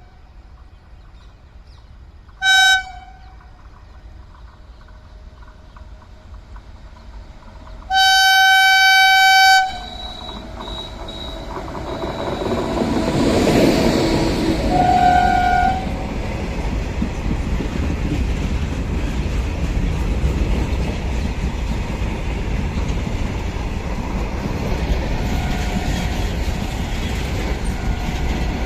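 Indian Railways WAG-9HC electric locomotive sounding its horn: a short toot about two and a half seconds in and a long blast near eight seconds. The train then approaches with a rising rumble and passes with wheel clatter, the horn sounding briefly once more as it goes by.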